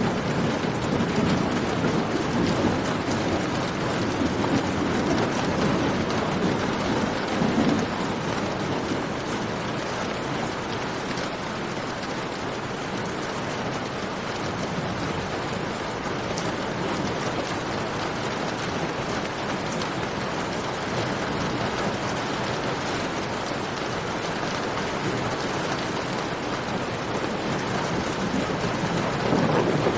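Steady heavy rain falling, with a low rumble that swells in the first several seconds and again near the end.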